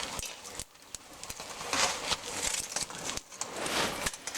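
Ice crunching and scraping with scattered knocks and crackles as a person climbs on a frozen waterfall, with bits of ice falling; the noise swells about two seconds in and again near the end.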